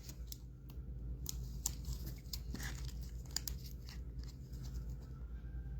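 Trading cards being handled, with faint rustling and scattered small clicks and taps from cards and their packaging.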